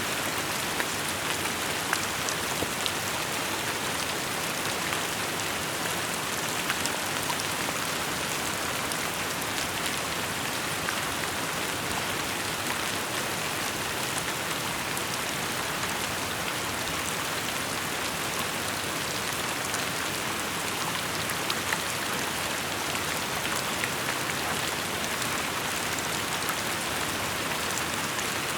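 Steady rainfall, a dense even hiss with scattered individual drops ticking on surfaces.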